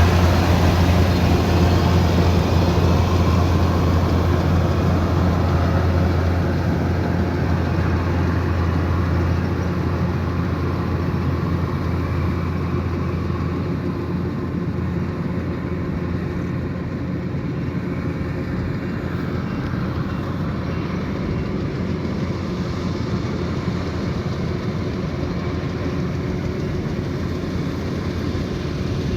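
Kubota DC108X combine harvester running under load: a steady low diesel engine drone mixed with the rattle and whir of its cutting and threshing machinery. It grows gradually quieter over the first half, then holds steady.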